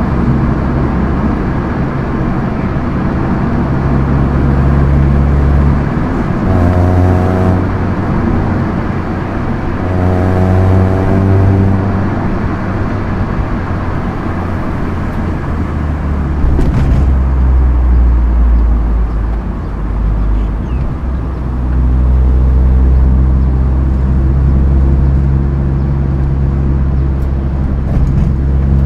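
2013 Proton Inspira 1.8 manual's four-cylinder engine under way, its revs climbing twice in the first half as the car accelerates, then running steadier with road noise.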